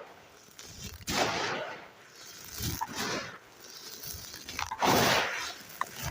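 Dry, gritty handmade red sand being crumbled by hand: crunchy, grainy crumbling in three bursts about two seconds apart, with small crackles between.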